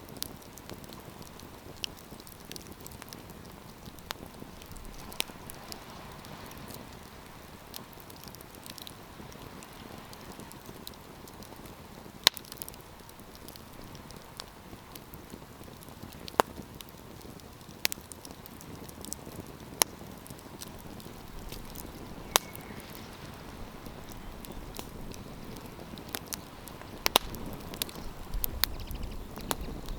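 Wood campfire crackling: sharp pops and snaps at irregular intervals over a soft steady hiss of burning, with a low rumble coming in near the end.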